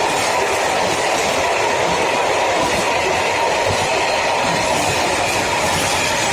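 Freight train wagons rolling past, with a steady, loud noise of wheels on rail joints and a faint high wheel tone.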